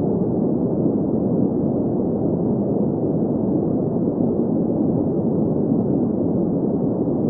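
Steady green noise: a constant, even hiss centred in the middle-low range, with the highs rolled off.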